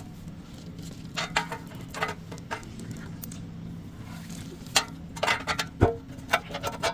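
Metal tools and engine parts clinking and clanking as they are handled, with sharp knocks scattered through and clustered in the last couple of seconds, over a steady low machine hum.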